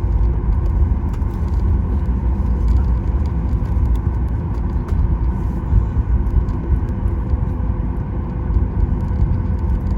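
Cabin noise of a Boeing 737 MAX 9 taxiing: a steady low rumble with the even hum of its CFM LEAP-1B engines at idle.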